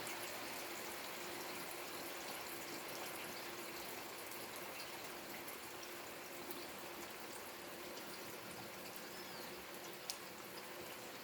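Steady rain falling, with many small drop ticks over an even hiss and one sharper tick near the end.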